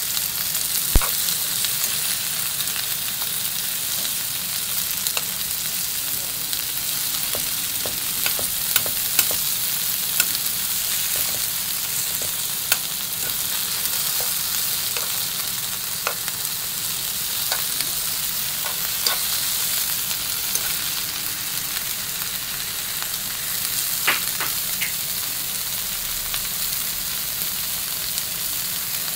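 Sliced sausage and onion frying in a pan: a steady sizzle with scattered sharp pops and clicks.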